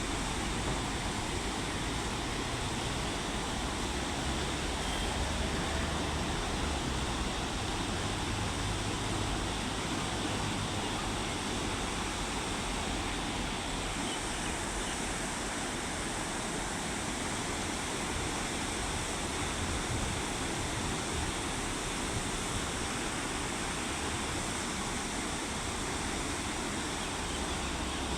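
Beas River rushing in a steady, unbroken wash of fast-flowing water, running high after rain in the upper reaches.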